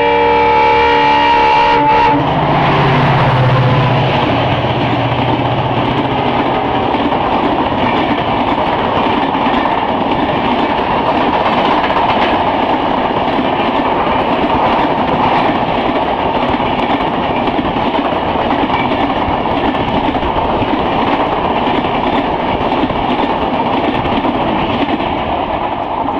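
An EMD diesel locomotive's horn sounds several tones at once and stops about two seconds in. The locomotive and a long rake of coaches then rush past at speed, with the engine's hum fading after a few seconds and a steady roar of wheels on rail joints continuing.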